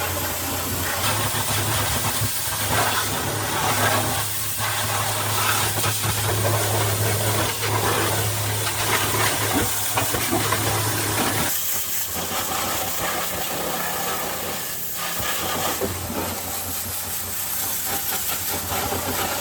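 Pressure washer spraying water in a steady hiss over the low hum of its motor, the hum dropping briefly about halfway through.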